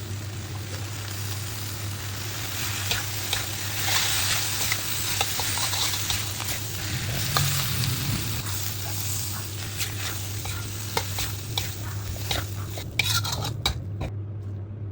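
Instant noodles with seafood sizzling as they are stir-fried in a pan, with a metal spatula scraping and clicking against it over a steady low hum. Several quick clicks come just before the sizzle drops away near the end.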